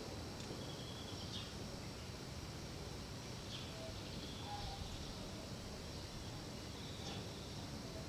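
Outdoor ambience: a steady low rumble of background noise with a few short, high bird chirps scattered through it.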